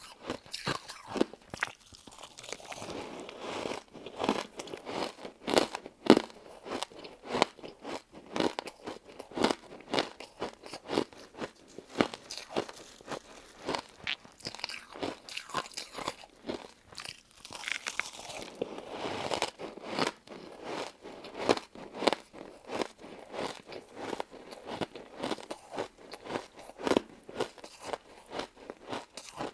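Close-miked chewing and biting through crunchy crystal ice and jelly dessert: a dense run of sharp crunches with no pause.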